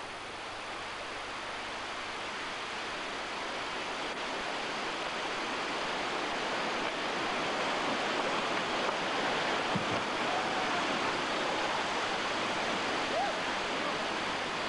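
Rushing water of a mountain river waterfall and its white water, a steady noise that slowly grows louder.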